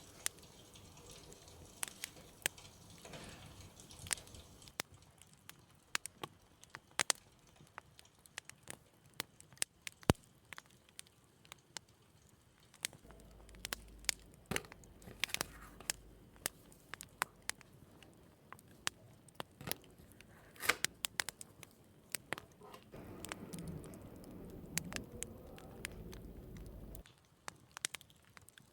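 Light kitchen handling sounds: scattered sharp clicks and taps of things being picked up and set down, with a low hum that comes and goes twice.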